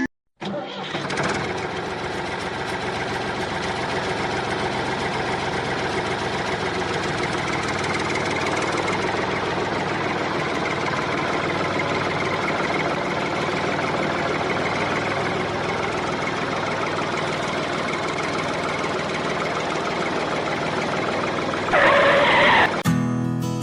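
An engine running steadily, with a brief louder surge near the end.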